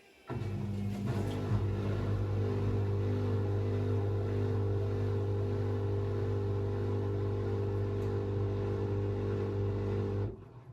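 AEG Lavamat washing machine running with a steady, even-pitched hum that starts suddenly and cuts off suddenly near the end.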